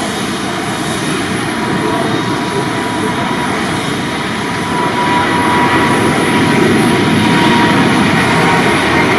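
Jet airliner engines running loud, a dense rushing noise with a steady thin whine, growing louder about halfway through.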